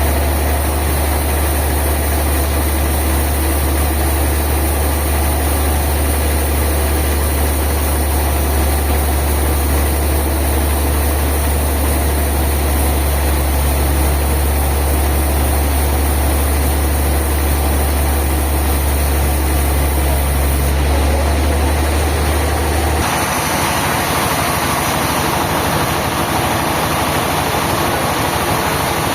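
Sawmill machinery running steadily with a strong low engine hum. About 23 seconds in, the sound changes abruptly: the low hum drops away and a higher, noisier running sound takes over.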